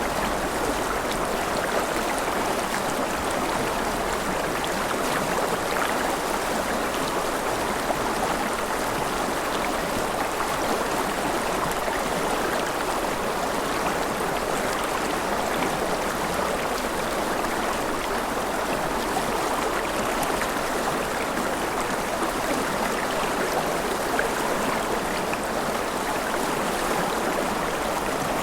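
Forest river flowing steadily: an even, unbroken rush of running water.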